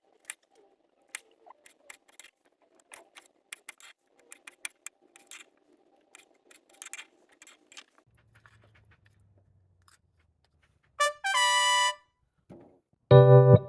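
Wood campfire crackling with irregular sharp pops for about eight seconds. About eleven seconds in, a short horn-like musical note sounds, and near the end background music with piano begins.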